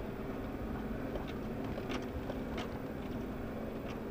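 Off-road 4x4 engine running steadily at low revs, with a few sharp clicks and knocks over the top.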